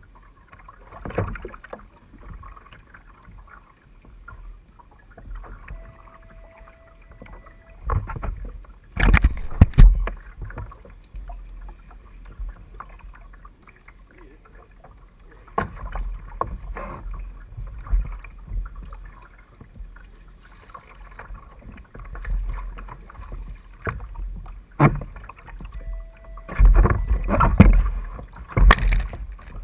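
Water sloshing and slapping against a fishing kayak's hull, with wind rumbling on the microphone. Louder splashes and knocks come about nine seconds in, again around sixteen seconds, and in a cluster near the end.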